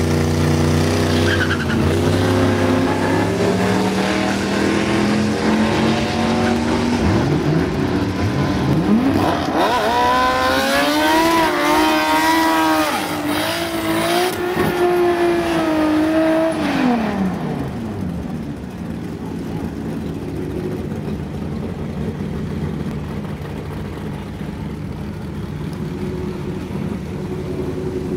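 Toyota Supra MKIV's single-turbo 3.4-litre stroker inline-six revving through a burnout in the water box, with tyre noise. The revs climb and hold high with a wavering pitch for several seconds, then fall back to a quieter, steadier run.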